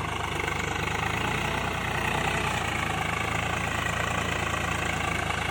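Swaraj 744 tractor's diesel engine running steadily at a low, even speed.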